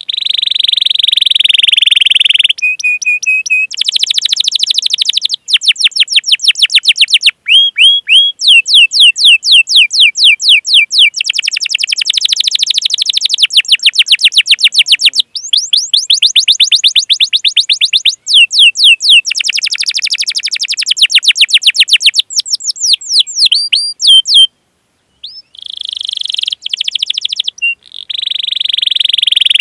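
Domestic canary singing a long song. It gives rapid runs of "cuit cuit" chirps, each sweeping down in pitch, broken by a few held trilled notes at the start and near the end, with one brief pause about 25 seconds in.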